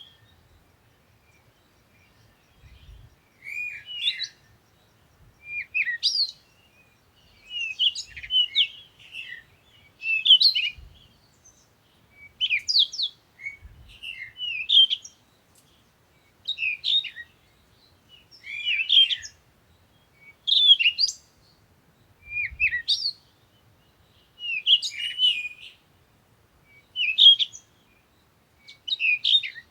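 A bird singing short, chirpy phrases, one about every two seconds, with brief pauses between them.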